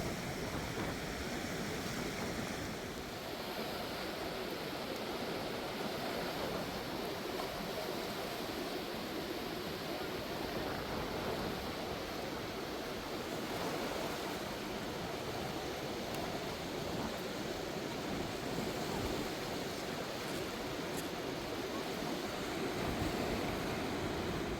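Steady rushing of a river in flood, a continuous even noise of fast-moving water.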